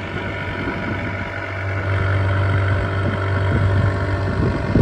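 Small boat's engine running steadily, a constant low hum that grows louder about two seconds in, over a rushing haze of wind and water.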